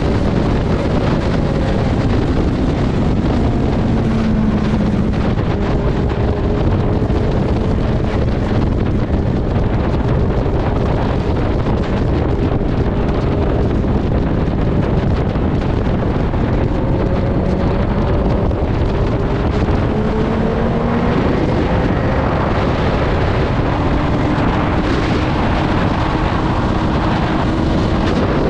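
Heavy wind noise on the microphone of a riding Suzuki GSX-R1000 sportbike, with the bike's inline-four engine heard faintly underneath, its pitch slowly rising and falling with the throttle.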